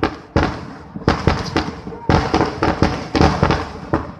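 Fireworks display: rapid, irregular volleys of sharp firecracker bangs, several a second, with a short lull about a second and a half in before a denser cluster.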